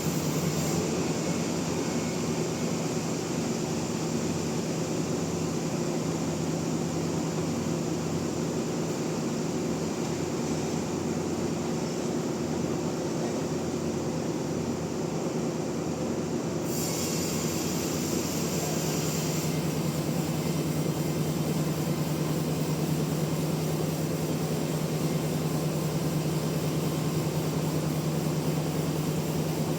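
Sawmill machinery running steadily, a constant motor hum with a droning tone above it. About halfway through, a higher hiss joins in and the hum drops slightly in pitch.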